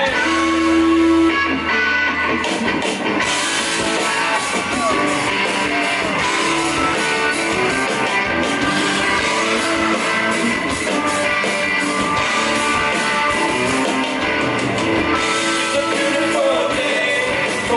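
Live blues-rock band playing at full volume, electric guitar to the fore, with a man's voice singing.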